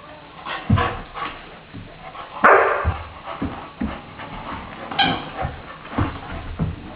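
Saint Bernard puppy play-fighting with a cat: irregular thumps and scuffling, a loud short rush of noise about two and a half seconds in, and a brief whimper-like call about five seconds in.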